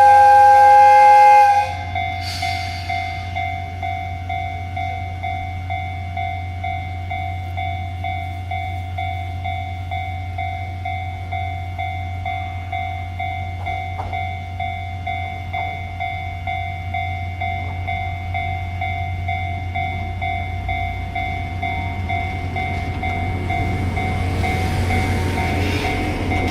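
Electric freight locomotive's horn sounding a loud, steady chord for its departure, cutting off about a second and a half in. Then a steady electrical hum with a few faint whining tones, and rumble building toward the end as the long freight train starts to move.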